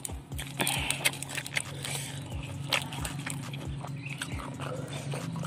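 Close-miked chewing of raw caisim greens: crisp crunches, wet mouth clicks and lip smacks, irregularly spaced. A steady low hum runs underneath.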